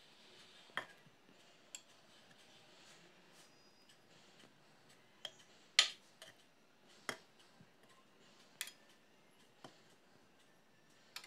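Scattered light clicks and clinks of tableware being handled, about nine in all, the sharpest about six seconds in.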